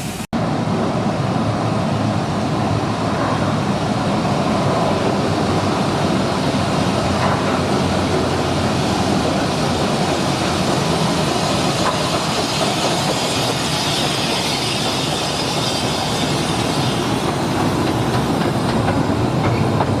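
Steady rolling noise of a Romney, Hythe and Dymchurch Railway 15-inch-gauge train under way: its wheels running along the rails with some clickety-clack.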